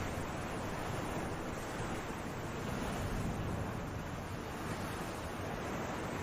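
Sea waves, a steady wash of surf with gentle swells in level.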